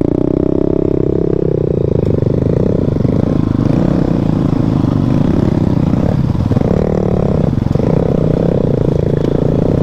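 Motorcycle engine running hard, its pitch rising at the start, then dipping briefly a few times as the throttle changes.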